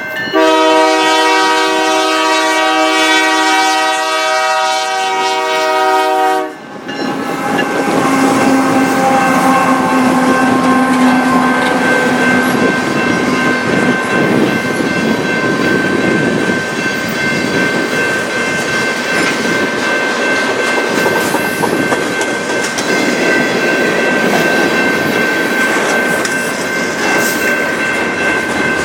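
Locomotive horn sounding one long chord of several notes, cutting off about six and a half seconds in. The train then rolls past, wheels clattering over the rails.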